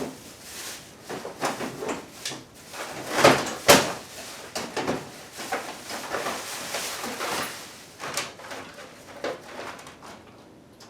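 Rummaging through a drawer of tools and hardware: loose items such as hose clamps clattering and knocking, in a string of irregular clicks with the loudest knocks about three to four seconds in.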